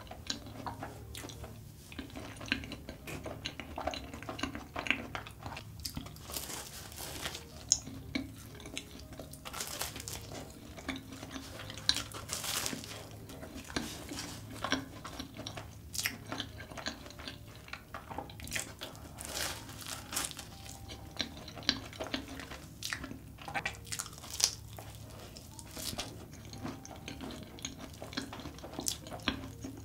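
Close-miked chewing and wet mouth sounds of eating a giant custard-filled choux cream puff with chocolate topping, with frequent short sticky smacks and clicks.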